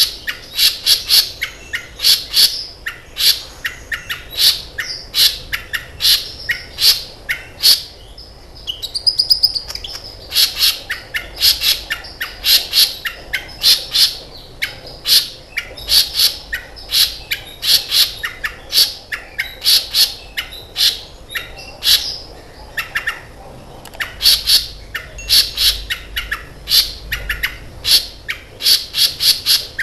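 Kolibri ninja sunbird singing in dense runs of sharp, high chirps, several a second, broken by a short lull about eight seconds in.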